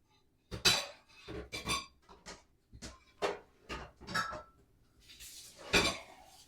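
Dishes and cutlery clattering as they are handled and stacked: a string of about nine sharp clinks and clanks over five seconds.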